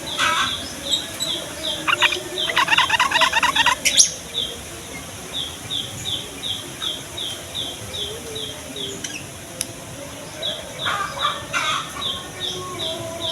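Sooty-headed bulbuls calling: runs of short, quick, evenly repeated high notes at about four a second, broken by a dense, fast chattering trill about two and a half seconds in and more chattering near the end.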